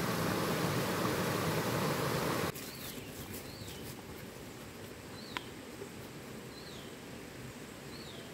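A steady rushing noise cuts off abruptly about two and a half seconds in. It gives way to quieter outdoor ambience in which a bird repeats a short, high, falling chirp about once a second.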